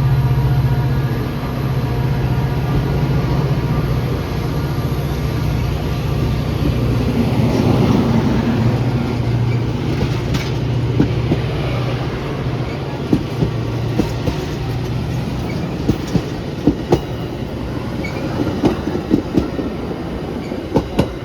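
Diesel-hauled train running through the station, its engine a steady low drone that eases off about halfway, then the wheels clicking irregularly over rail joints.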